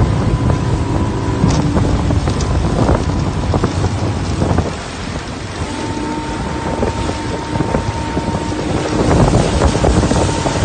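Motorboat engine running, with heavy wind buffeting the microphone; the engine's steady hum drops slightly in level about halfway through.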